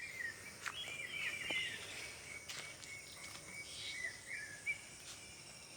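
An unidentified night bird calling: short wavering, warbling notes, repeated several times, over a steady high insect-like trill and a few faint clicks.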